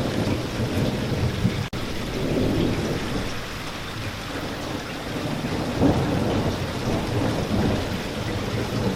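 Spring rain falling steadily, with a low rumble of thunder underneath and a louder swell of rumble about six seconds in. The sound cuts out for an instant a little under two seconds in.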